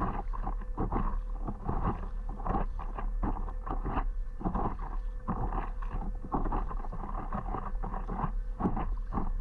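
Stand-up paddle strokes in water, with irregular splashing and water slapping against the paddleboard, over a steady low rumble of wind on the microphone.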